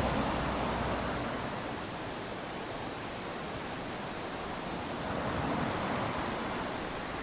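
Small waves lapping onto a sandy beach: a steady wash that swells and eases, with one surge at the start and another about five seconds in.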